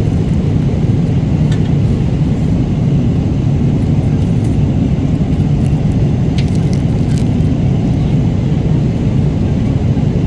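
Steady low rumble of an airliner cabin in flight, with a few faint clicks about a second and a half in and again around six to seven seconds.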